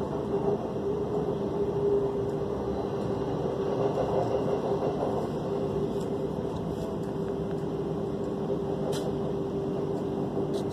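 Passenger train running along the line, heard from inside the carriage: a steady rumble of wheels on the track with a constant low hum.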